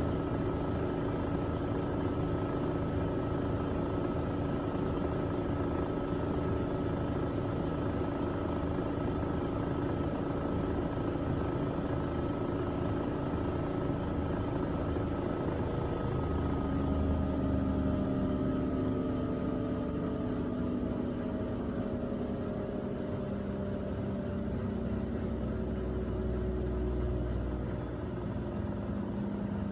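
Miele W3985 front-loading washing machine spinning its drum at speed, a steady motor whine with rumble. About halfway through, the whine starts falling in pitch as the spin slows, with low rumbling bursts.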